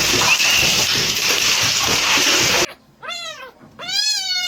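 A loud, steady rushing noise cuts off suddenly about two and a half seconds in. A domestic cat then meows twice, the second meow longer.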